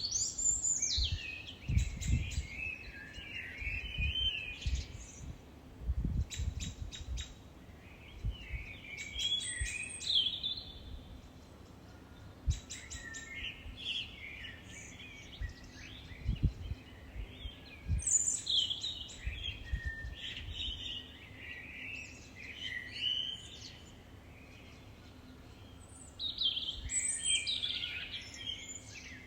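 Songbirds singing in bouts of quick, high chirping and warbling phrases separated by short pauses, with a few brief low thumps among them.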